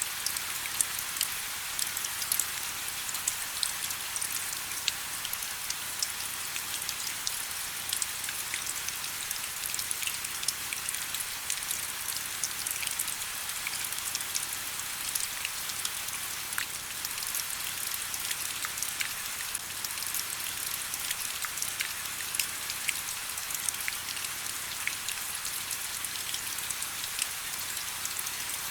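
Steady rain: an even hiss with many small, sharp drop hits scattered through it.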